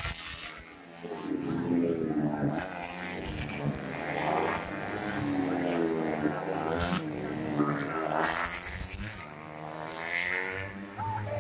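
125cc four-stroke single-cylinder underbone race motorcycles going through a corner. The engine pitch falls and rises again several times as the bikes brake in and accelerate out.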